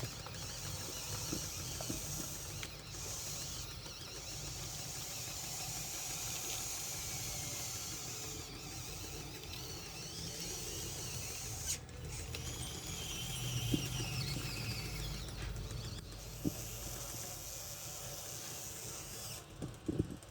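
Electric motors and gearboxes of a Huina radio-controlled construction model running with a steady whine, the pitch rising and falling as the motors speed up and slow down. A few clicks and knocks come in between, and the high whine cuts off shortly before the end.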